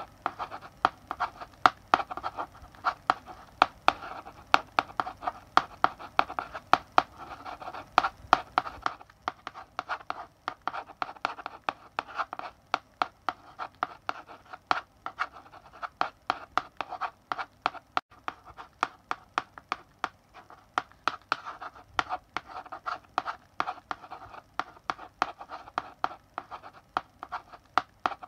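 Chalk writing on a blackboard: a quick, irregular run of sharp taps and short scratchy strokes as letters are written.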